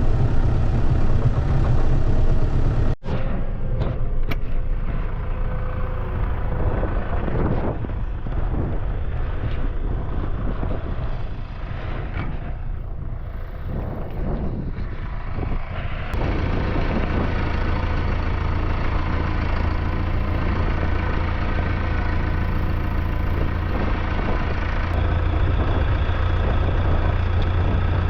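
Tractor engine running steadily. The sound cuts out for an instant about three seconds in, and the engine note shifts around sixteen seconds.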